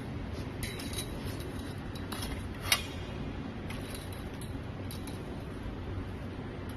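CNC 3D wire bending machine running with a steady low hum, its mechanism making scattered light metallic clicks as it works the wire, with one sharp, loud clack a little under three seconds in.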